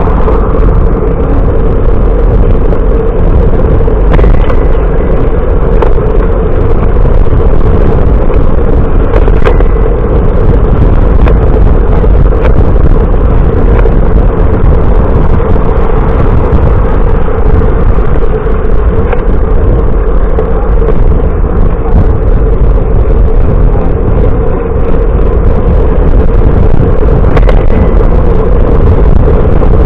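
Steady, loud rush of wind and road noise on the camera's microphone while riding a bicycle, with a constant low rumble and a hum underneath.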